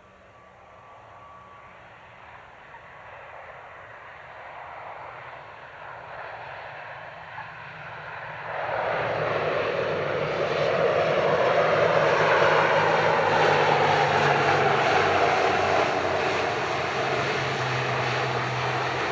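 Jet airliner's engines at take-off power, growing steadily louder as the aircraft approaches, then loud about eight seconds in as it passes, with an engine tone that slowly falls in pitch.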